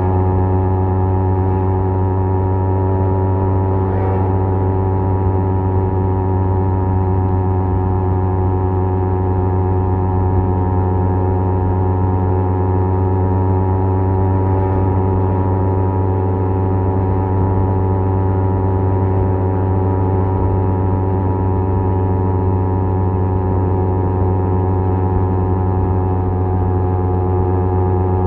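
Kawasaki Z250's parallel-twin engine through a SeaPro aftermarket exhaust, running at a steady cruising speed with its pitch held constant and no revving or gear changes.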